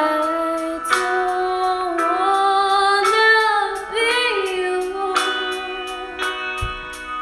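A woman singing a slow melody in long held notes over backing music, with a wavering note about four seconds in.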